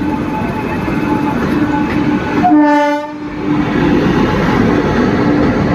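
Rajdhani Express train arriving, with a steady rumble and hum throughout. About two and a half seconds in, a short horn blast lasts about half a second.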